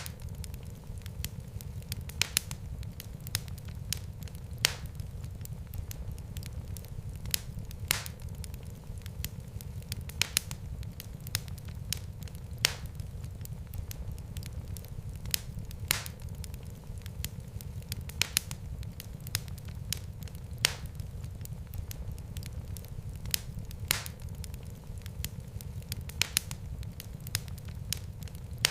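Wood fire burning in a fireplace: a steady low rumble of flames with irregular sharp crackles and pops, several every few seconds.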